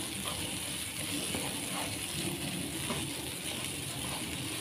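Ground spice paste sautéing in oil in a granite-coated wok: a steady sizzle, with the soft scrape of a spatula stirring it.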